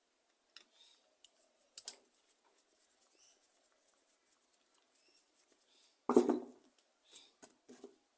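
Small sharp clicks and taps of a screwdriver and small metal parts while the screws holding the cover on a Walbro carburettor are undone, with one louder knock about six seconds in and a few quick clicks just after.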